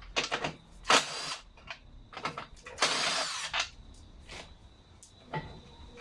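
Cordless drill-driver backing out the screws of a lawnmower engine's cover in three short runs, the longest about three seconds in, followed by a few light clicks and knocks.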